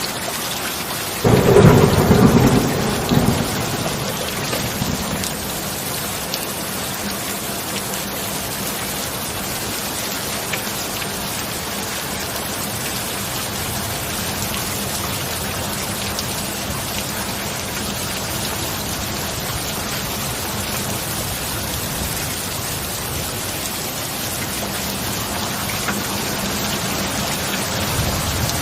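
Steady heavy rain with a sudden thunderclap about a second in that rumbles away over the next two seconds. A low thunder rumble builds again near the end.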